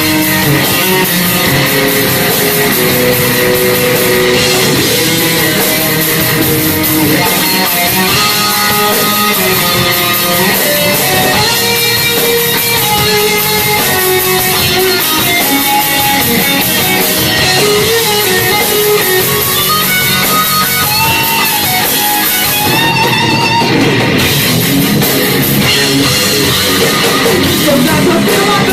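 Live heavy metal band playing an instrumental passage: distorted electric guitars over bass and drum kit, with a melodic guitar line moving over the top.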